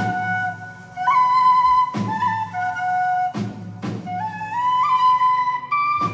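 Flute playing a melody that moves in steps from note to note, over a low steady accompaniment, with a few sharp percussive hits.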